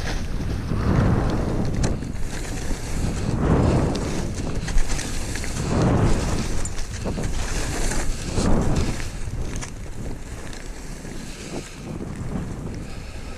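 Wind buffeting a helmet-camera microphone while skiing, a rushing noise that swells and fades every few seconds, with the hiss of skis sliding over snow, a little quieter near the end.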